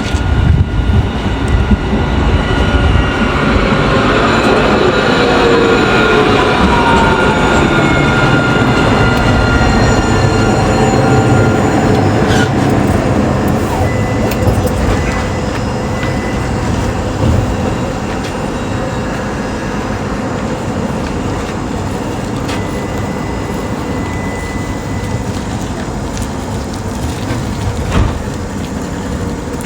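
Electric tram pulling into a stop: its motors whine in several tones that fall in pitch as it brakes over the first dozen seconds, then it stands with a quieter, steady hum.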